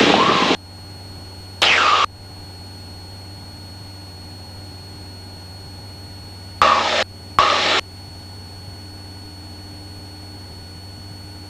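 Steady drone of a Cessna 172's engine heard through the cockpit headset intercom. It is broken by four short, loud noisy bursts of about half a second each: one at the start, one about two seconds in, and two close together about seven seconds in.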